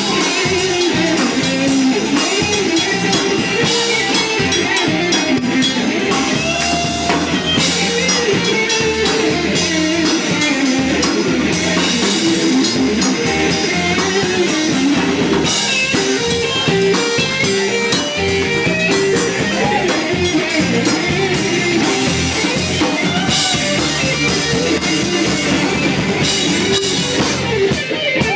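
Live blues band playing: drum kit keeping a steady beat under guitar, with melodic lines wavering over the top.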